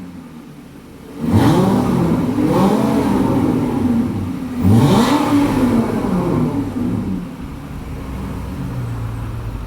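A 2013 Aston Martin V8 Vantage's 4.7-litre V8 is revved through its exhaust in several sharp blips, the pitch jumping up and falling back each time. It then drops back to a steady idle near the end.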